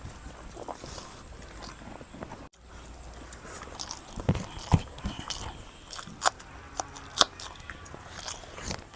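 A person eating close to the microphone, chewing and biting with scattered sharp crunches and mouth clicks. The crunches and clicks are thicker in the second half, and the sound cuts out for an instant about two and a half seconds in.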